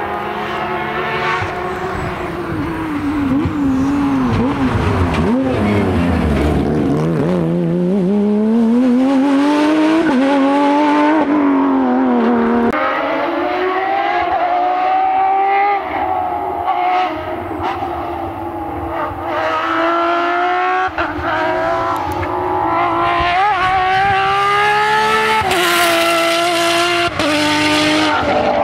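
Porsche 911 rally car's flat-six engine driven hard: the revs fall low under braking and downshifts, then climb again, with several upshifts later on where the pitch drops sharply before rising again.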